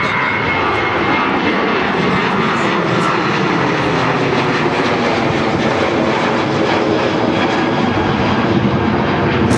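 Airliner's engines running, a loud, steady rushing noise with a faint whine in the first few seconds.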